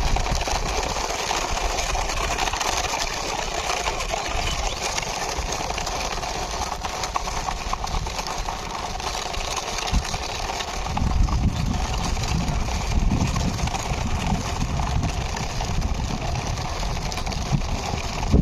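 Plastic toy truck pushed along by hand, its wheels rolling and grating steadily over rough ground, with a heavier low rumble from about eleven seconds in.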